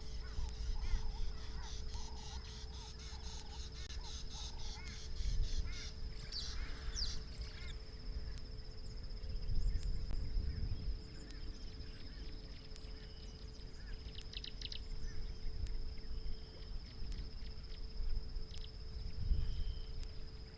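White-bellied go-away-bird calling, a run of short repeated nasal notes in the first few seconds. Under it run a steady high insect buzz, a low hum and a low rumble, with fast high chirps from other birds or insects now and then.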